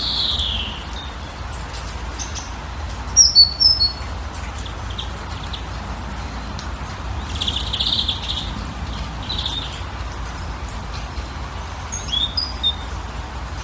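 Wild birds calling now and then: a falling whistle at the start, quick chirps a few seconds in, a buzzy call in the middle and more chirps near the end, over a steady rushing background hiss.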